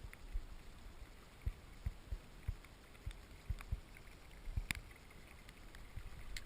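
Water sloshing and lapping against a kayak's hull, with irregular dull low knocks and one sharp click about four and a half seconds in.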